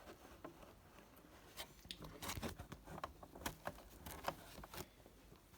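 Faint, irregular clicks and taps of objects being handled, which grow more frequent from about a second and a half in. The vacuum motor is not running.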